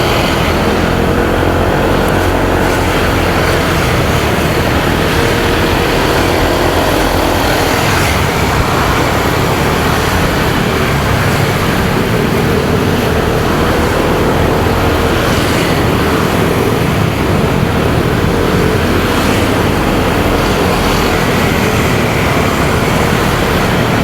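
Motorcycle engine running while riding, its pitch wavering slightly, with steady wind noise on the microphone and road traffic around it.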